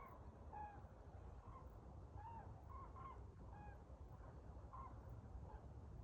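A flock of cranes calling to each other, faint short bugling calls following one another irregularly every half second or so, over a low rumble.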